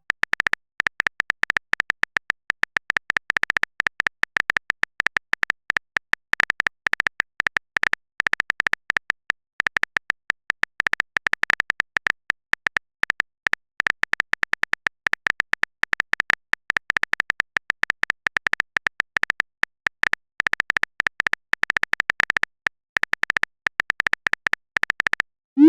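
A rapid, irregular run of short, bright clicks, many per second, that stops just before the end: a phone-keyboard typing sound effect.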